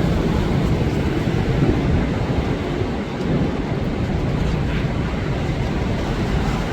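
Strong storm wind blowing in gusts, a loud, steady low rush of noise with small swells, heavy on the microphone.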